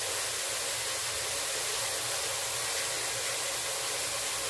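Water spinach and eggplant sautéing in a deep pot, a steady sizzling hiss.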